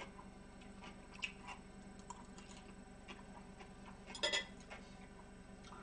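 Faint close-miked chewing with scattered small mouth clicks and one brief louder sound about four seconds in.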